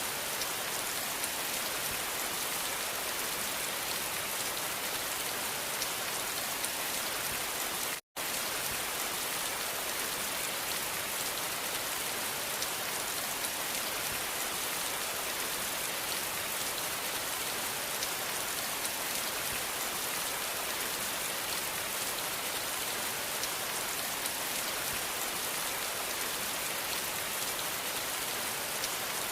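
Steady rain falling, a dense even hiss strongest in the high end, with one split-second dropout to silence about eight seconds in.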